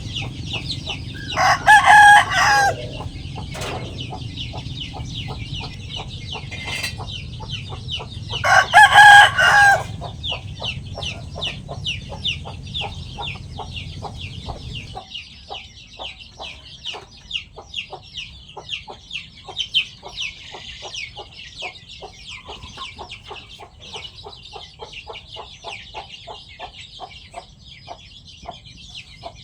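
A rooster crows twice, two loud calls about seven seconds apart, among chickens clucking. Fast, light clicking runs throughout, typical of chickens pecking at their food.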